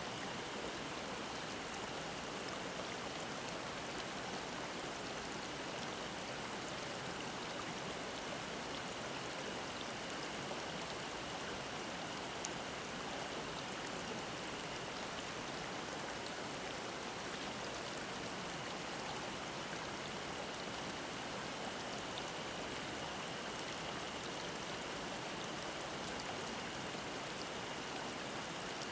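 Mountain stream babbling in a steady rush, with cicadas singing faintly as a thin, steady high drone behind it.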